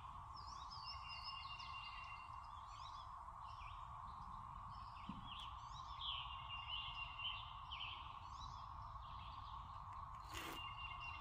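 Several birds chirping and singing in short repeated phrases, a couple of them louder about six to seven seconds in, over a steady, even background drone.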